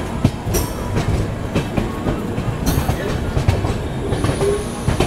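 Express train coaches running on the track: a steady rumble with irregular clacks and knocks from the wheels passing over the rails.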